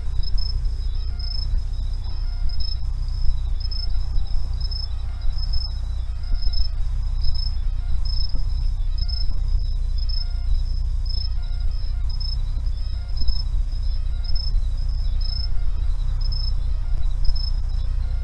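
Insects chirping in a steady run of short, high-pitched pulses, over a steady low rumble.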